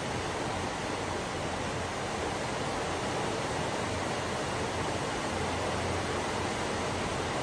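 Steady rain, an even hiss that stays the same throughout.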